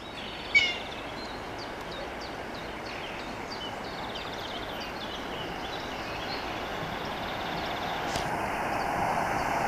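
EP20 electric locomotive and its passenger coaches approaching on the rails, their rumble growing steadily louder. Birds chirp over it, one sharp chirp about half a second in being the loudest moment.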